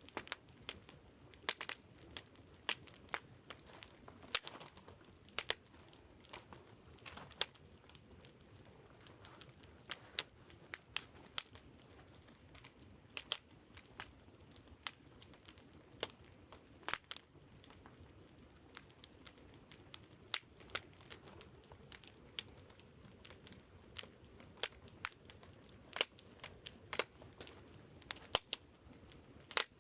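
Wood campfire crackling, with irregular sharp pops and snaps several times a second over a faint steady low hush.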